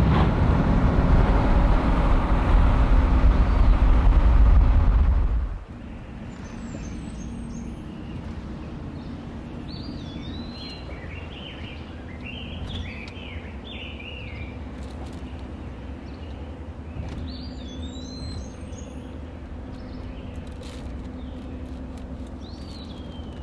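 Loud road rumble of a pickup truck being driven, which stops abruptly after about five seconds. It gives way to a quieter outdoor background where small birds call with repeated short chirps and slurred whistles over a faint low hum.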